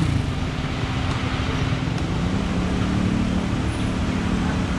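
Motorcycle engine idling steadily, with a second engine note coming in about halfway through.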